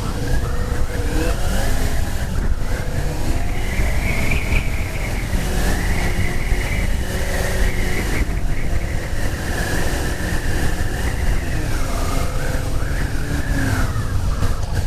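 Motorcycle engine running while riding, its pitch rising and falling several times as the rider speeds up and slows, over a heavy low rumble.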